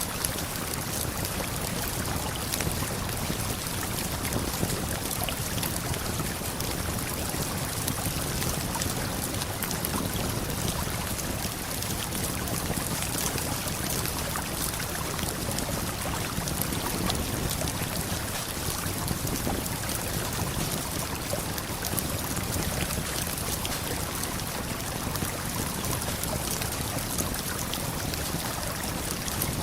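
Steady rushing of a river and waterfall, with small crackles and pops from a campfire scattered over it.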